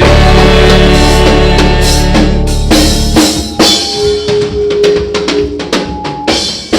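Praise band playing between sung lines: a drum kit with kick and snare over bass and held chords. About three seconds in, the bass drops out, leaving drum hits and sustained notes.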